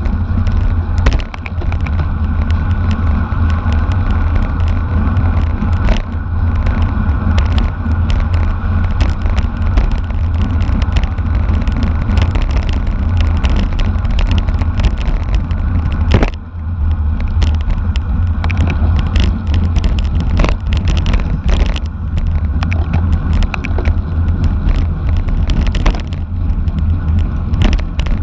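Steady rush of wind and road noise from a bicycle moving at racing speed, heaviest in the low end, with many short sharp clicks and rattles throughout.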